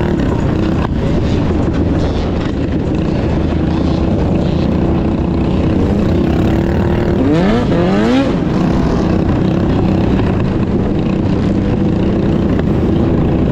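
Mini bike engines running steadily, with one bike revving up sharply about seven seconds in.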